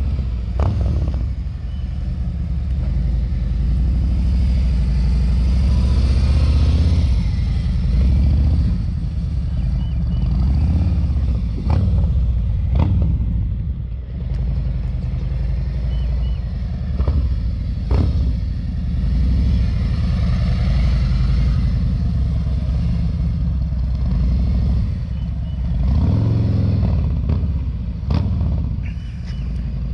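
Motorcycle engine running steadily at low speed, with a few brief swells of throttle and several short knocks.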